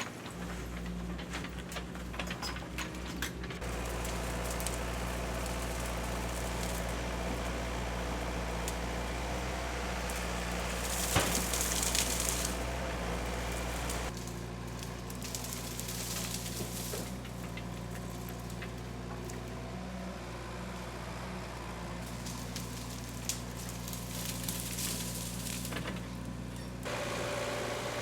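Diesel engine of earthmoving machinery running steadily on site, with a brief louder hiss about eleven seconds in.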